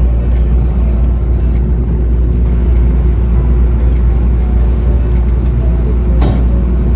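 Steady low rumble of a moving vehicle with a constant hum, and one short knock about six seconds in.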